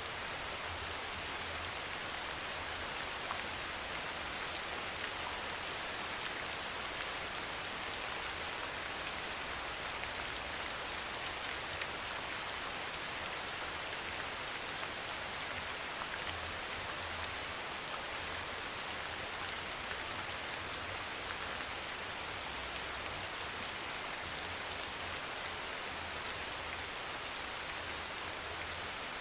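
Steady rain falling: a dense, even patter of drops with an occasional louder drop tick.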